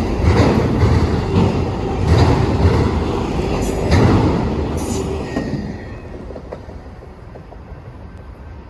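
Freight cars of a long mixed train rolling past, their wheels clacking in a loose, uneven rhythm over a steady rumble. About two-thirds of the way through, the sound drops off to a quieter rumble as the cars move away.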